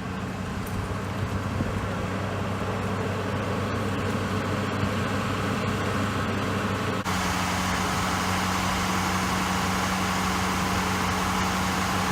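Idling vehicle engine: a steady low hum over continuous street noise. The sound changes abruptly about seven seconds in, becoming louder and hissier.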